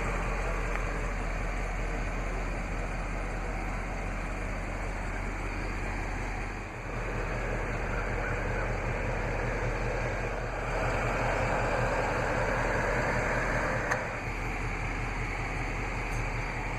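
2016 Ford Mustang GT's 5.0-litre Coyote V8 idling steadily with a constant low hum. There is a brief dip in level about seven seconds in and a small click about fourteen seconds in.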